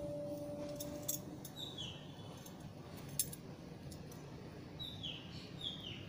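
Faint bird chirps: short falling calls, one about one and a half seconds in and two more near the end, over low background noise with a few soft clicks.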